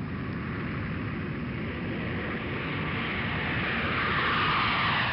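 Jet aircraft engine noise: a steady low rumble under a rushing hiss that slowly grows louder, the hiss swelling from about three seconds in.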